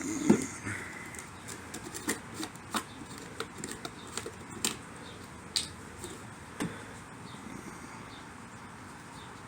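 Scattered light clicks and knocks of hands handling an HVAC vacuum pump and its parts while opening it to drain the oil, the loudest just at the start.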